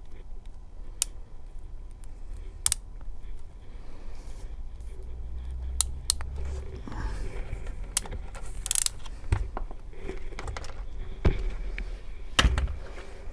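Irregular sharp clicks, snips and small handling noises of hand tools on wire, from stripping, cutting and fixing model railway track feed wires into terminal blocks.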